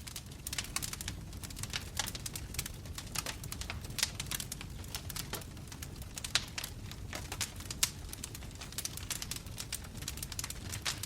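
Wood fire crackling: burning logs give off a dense, irregular run of sharp pops and snaps over a steady low rumble of the flames.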